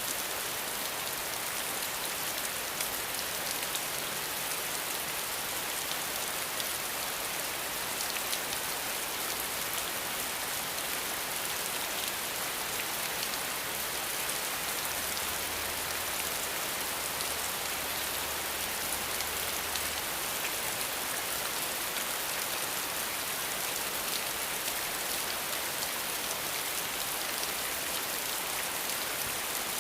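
Steady rain falling: a dense, even hiss with fine drop ticks through it, unchanging throughout.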